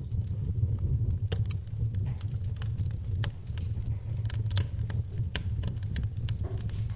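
Wood fire crackling in a fireplace: irregular sharp pops and snaps over a steady low rumble, with rain in the background.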